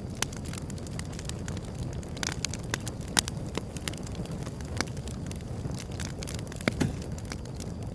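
Wood fire crackling and popping over a steady low rumble of flames, with irregular sharp snaps, the loudest about three seconds in.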